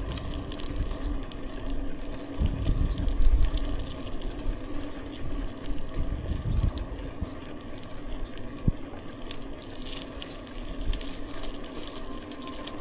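Road and wind noise while riding a bicycle along a country road: a low, uneven rumble with gusts, a faint steady hum and a few light clicks.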